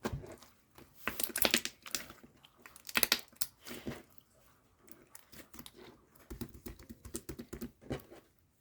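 Slime being squished and pressed by hand, giving dense crackling and popping clicks in clusters, with a softer run of clicks near the end.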